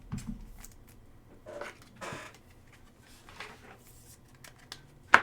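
Soft swishes and scrapes of baseball trading cards being slid and handled one after another, a second or so apart, with a sharp click near the end.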